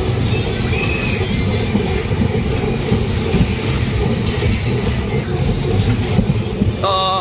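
Steady, loud low rumble of a fairground ride running, with fairground music starting near the end.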